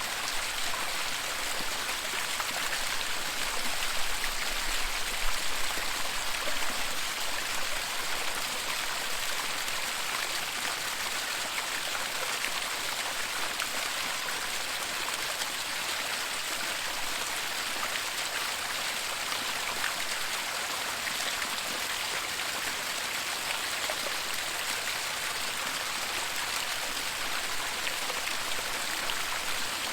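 Waterfall: a steady rush of falling, splashing water, swelling a little for a few seconds about four seconds in.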